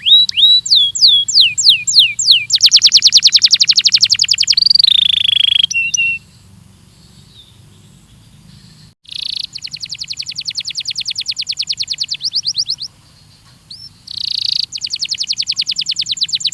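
Belgian canary singing: a run of falling whistled notes, then fast, even trills, with a pause of about three seconds before the rapid trills start again.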